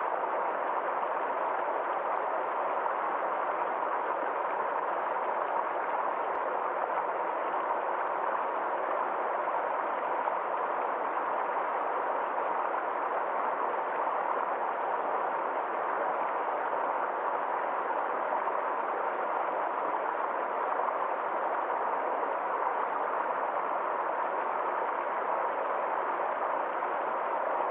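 Forest stream flowing steadily, a constant even sound of running water.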